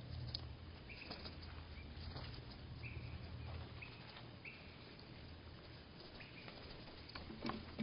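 Small songbirds' calls slowed to one-third speed, so they come out as short, flat, lowered notes repeated about once a second, with scattered clicks over a low steady hum.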